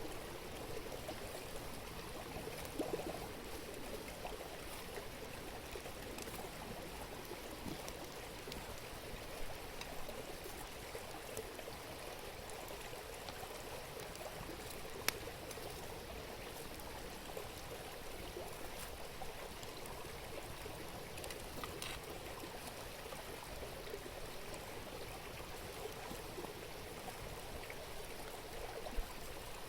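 Steady babble of a river stream, with a few sharp pops from a wood campfire, the clearest about halfway through and near the end.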